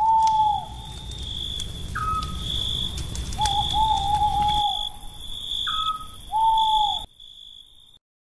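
An owl hooting a few times, one call longer and quavering, over steady cricket chirping; the sound cuts off abruptly near the end.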